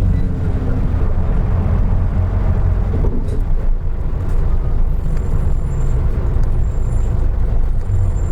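Onboard sound of a 2003 Isuzu Erga Mio city bus (KK-LR233J1): its diesel engine running with a steady low drone. Faint high-pitched tones come in about halfway through.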